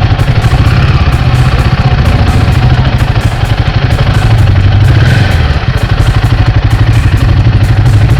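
Motorcycle engine running with a steady, rapid low throb, dipping briefly about five and a half seconds in.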